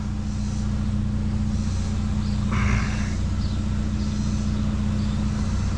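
A vehicle engine idling with a steady low drone, and a short rustle about halfway through.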